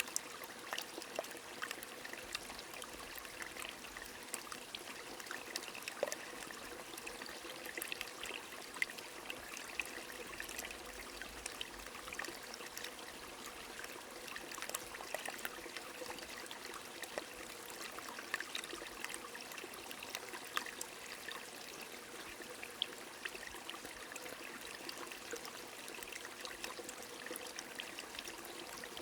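A small stream trickling and flowing steadily, mixed with light rain, with many small drop ticks scattered through it.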